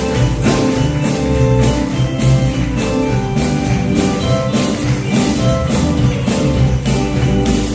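Instrumental passage of live music: guitar and bass notes over a steady percussion beat, with no voice.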